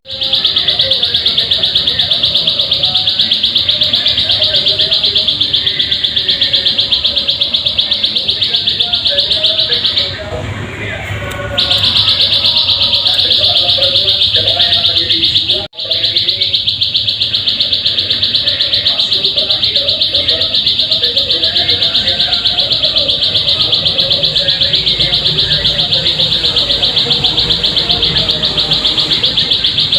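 Ciblek sawah (plain prinia) song: a fast, high, continuous trill of evenly repeated notes, with a short break about ten seconds in and a brief cut near sixteen seconds.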